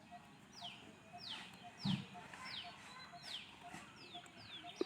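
A bird calling over and over, short high notes that fall in pitch, about three a second, with a single low thump about two seconds in.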